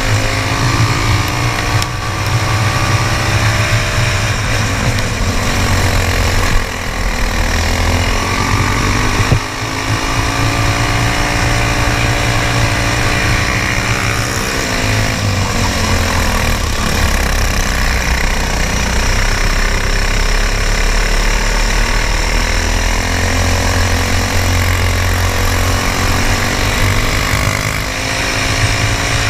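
Briggs & Stratton Animal single-cylinder four-stroke racing kart engines running hard: the pitch climbs for several seconds as they accelerate, then falls as they slow, over and over.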